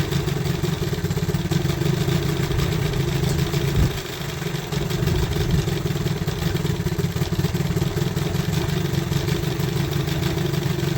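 Old outboard motor idling steadily just after a hard start, running on with a fast, even beat while it warms up and burns off smoke. It briefly dips and stumbles about four seconds in, then picks up again.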